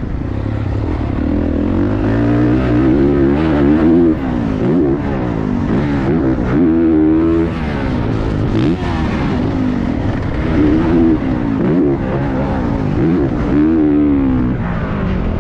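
Motocross bike engine revved hard and backed off over and over, its pitch climbing and dropping every second or two as the rider accelerates, shifts and slows around the track, heard from a camera on the rider's helmet.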